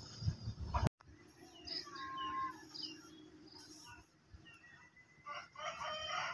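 Small birds chirping and calling in short, quick notes, busiest near the end; a low rumbling noise in the first second drops out abruptly at a cut about a second in.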